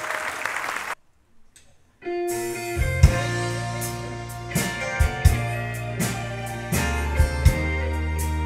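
Applause that cuts off about a second in, then after a short gap a band's instrumental intro begins: guitar over bass and a drum kit with regular kick and snare hits, in a country-gospel style.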